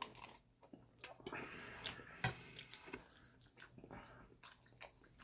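A person chewing a mouthful of Bananas Foster French toast with soft, juicy banana, with irregular wet mouth clicks.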